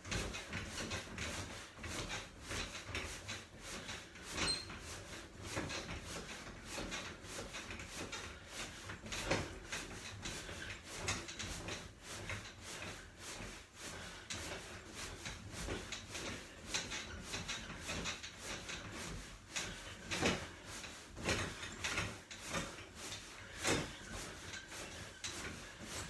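Irregular creaks, rubs and soft knocks from a person doing squats on small exercise equipment, with the loudest knocks about 9, 20 and 24 seconds in.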